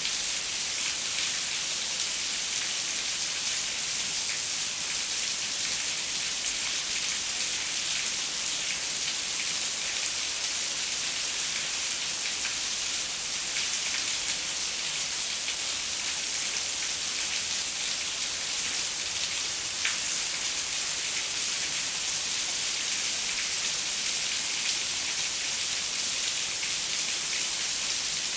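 Steady rain falling on a window, an even high hiss with scattered faint drop ticks.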